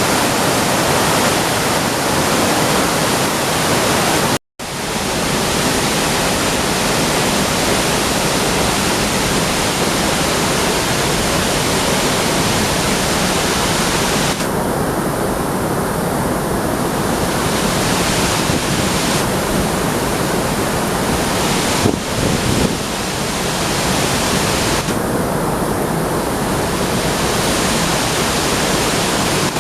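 Nunobiki Falls pouring in heavy flow after rain: a loud, steady rush of falling water, broken once by a brief cut-out about four seconds in.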